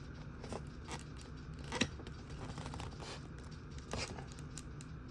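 Food and its wrapping or container being handled: scattered short crackles and clicks, the sharpest about two seconds in and another about four seconds in, over a low steady hum.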